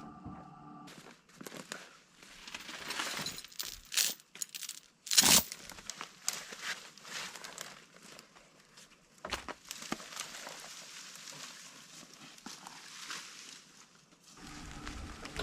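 Dry honeysuckle brush and twigs crackling and snapping in irregular bursts, with one sharp snap about five seconds in.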